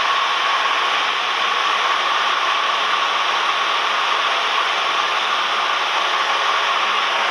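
Steady cabin noise of a Cessna 172M in flight: the engine and propeller run at a constant power setting as an even hiss-like drone with a faint steady hum in it.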